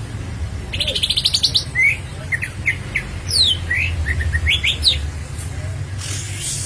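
Green leafbird (cucak ijo) singing: a fast rattling trill, then a quick run of varied whistled notes sliding up and down, over a low steady hum.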